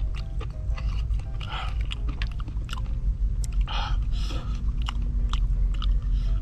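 A person chewing and biting crunchy food close to the microphone: irregular crisp crunches and mouth clicks over a steady low rumble.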